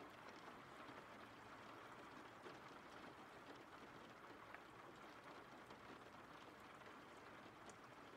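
Faint, steady rain with a few scattered drop ticks.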